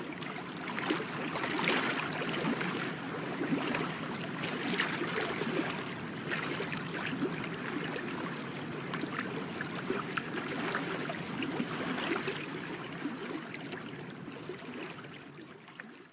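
Water lapping and trickling, with many small splashes, fading out near the end.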